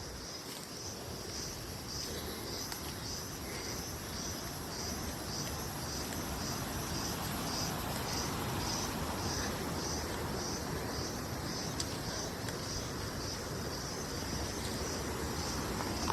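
Insects chirping in an even rhythm, about two pulses a second, over a steady high-pitched insect hiss and outdoor background noise.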